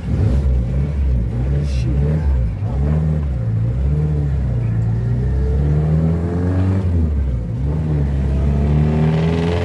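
1971 Ford Corcel's four-cylinder engine pulling the car away, its pitch rising and falling several times as the throttle opens and eases. Near the end it climbs steadily as the car accelerates.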